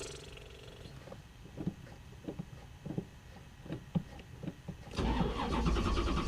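Car engine being cranked with slow, uneven turns, then catching about five seconds in and running with a steady rumble: a hard start.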